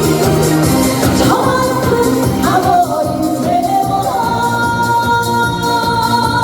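Female singer singing live over amplified backing music, part of a medley of well-known songs; about four seconds in she holds a long note that wavers near its end.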